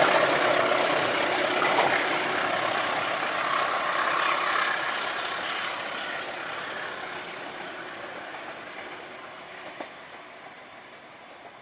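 Long passenger train's coaches running on the rails and fading into the distance as the train pulls away around a curve. The rumble dies away steadily, with a faint click about ten seconds in.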